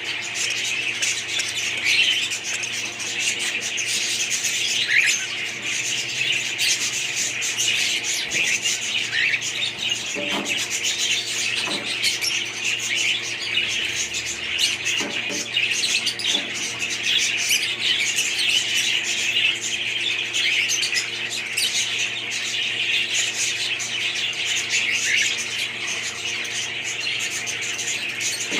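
A flock of budgerigars chattering and warbling without a break, with a steady low hum underneath.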